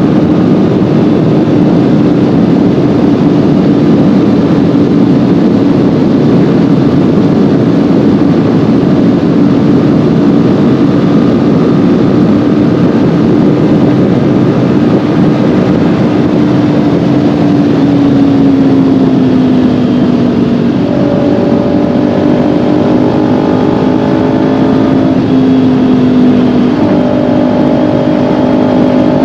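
Kawasaki Ninja 400 parallel-twin engine running steadily under way, heard over heavy wind rush. About two-thirds of the way through, the engine note falls lower and then holds, with a couple of small steps in pitch near the end.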